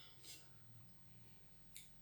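Faint mouth clicks of chewing food, with one short sharp click near the end over a low steady hum.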